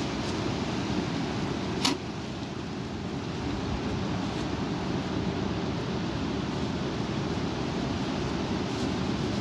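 Strong wind blowing in a steady rush, heaviest in the low range, with wind buffeting the microphone. A single sharp click about two seconds in.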